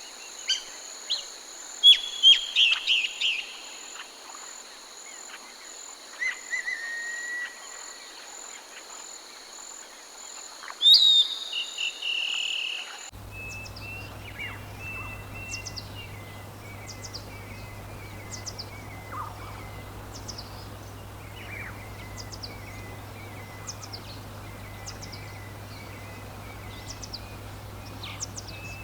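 Forest birds calling and chirping over a steady high insect drone. About halfway through the sound cuts abruptly to a different recording: the insect drone stops, and a low steady hum comes in under a run of short, repeated bird chirps.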